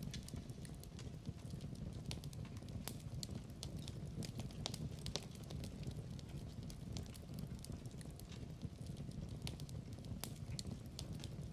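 Fire crackling in a fireplace: irregular sharp pops and snaps over a low, steady rumble of the flames.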